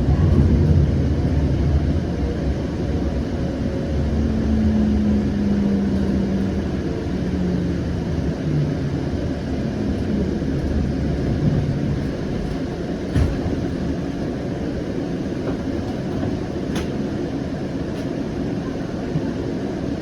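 Siemens S700 light-rail train slowing into a station, its electric drive whining down in pitch as it brakes over a steady low rumble. After that comes a quieter steady hum with a couple of sharp knocks.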